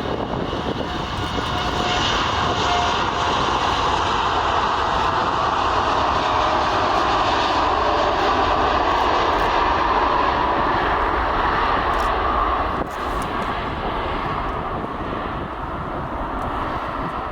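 Airliner's engines as the aircraft passes close by: a steady rush of engine noise that builds over the first couple of seconds, is loudest in the middle and eases off after a brief dip about two-thirds of the way through. A faint falling whine is heard near the start.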